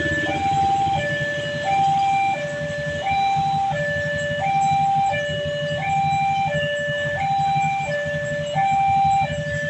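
Indonesian railway level-crossing warning alarm sounding: an electronic two-tone signal alternating evenly between a low and a high note, each held about 0.7 s, meaning a train is approaching and the gates are closing. A steady low rumble runs underneath.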